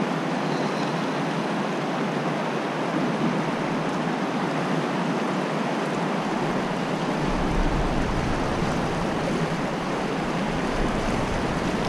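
Fast creek current rushing steadily over rocks. A low rumble joins about halfway through.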